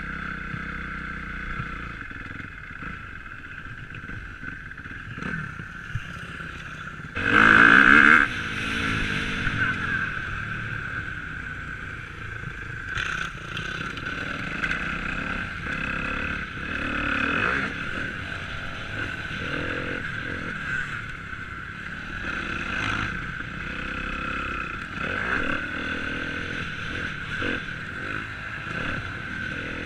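Motocross bikes running and revving, with one bike loudest about seven seconds in, as if passing close.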